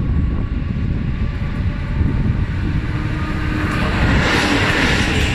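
Electric locomotive hauling a passenger train approaches and passes close by, its wheel and rail noise swelling loudly about four seconds in. Wind rumbles on the microphone throughout.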